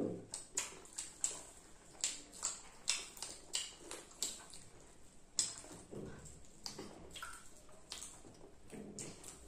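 Children chewing popcorn and French fries, with irregular crunches and wet mouth clicks about two or three a second.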